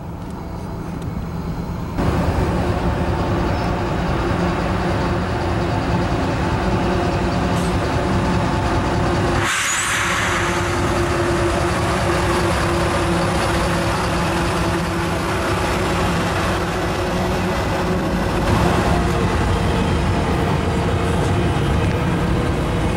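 Diesel freight locomotives running under power as they approach and pass, with a steady engine drone that gets louder about two seconds in, then the rumble of double-stack container cars rolling by. A brief burst of hissing noise comes about ten seconds in as the lead units go by.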